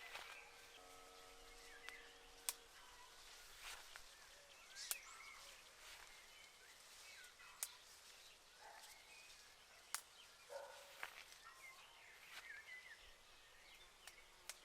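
Faint outdoor ambience with small birds chirping now and then and a few sharp ticks scattered through it.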